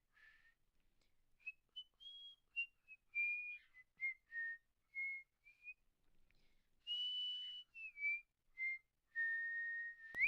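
Whistling of a melody: a run of short clear notes at changing pitches, then two longer held notes, the last one sliding upward at the end.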